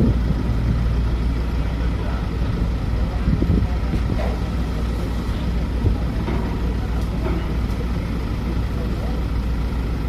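Heavy diesel engine running with a steady low drone, as of a passenger ship's engine while docking, with people's voices faintly in the background.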